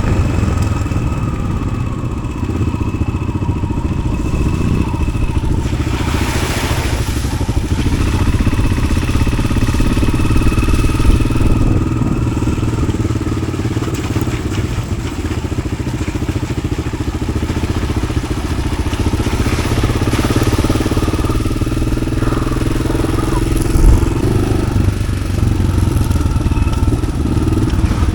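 Yamaha XT600's single-cylinder four-stroke engine, fitted with an Arrow exhaust, running steadily under way as the bike is ridden off-road. A brief rush of noise comes about six seconds in and again around twenty seconds.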